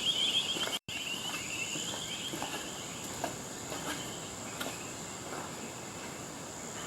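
Insects chirping in bushland: a fast trilling chirp that fades out about three seconds in, over a steady high-pitched drone, with a few faint ticks. The sound cuts out for an instant about a second in.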